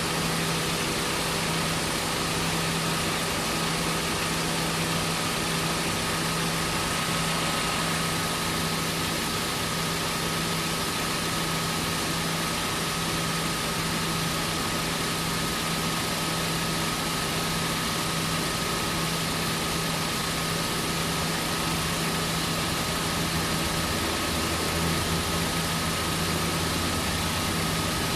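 Steady mechanical hum with an even hiss and a constant thin tone above it, like an engine idling.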